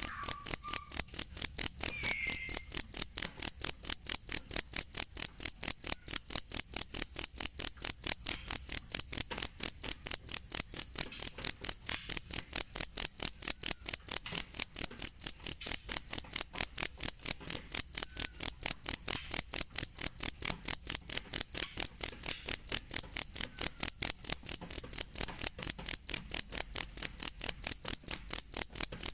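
Cricket chirping steadily in a high, clear tone, about four even chirps a second.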